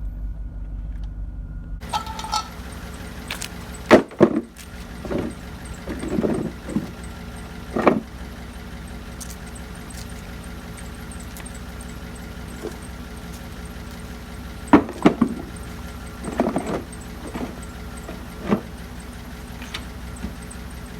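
A vehicle engine running steadily, with clunks and rattles at irregular moments.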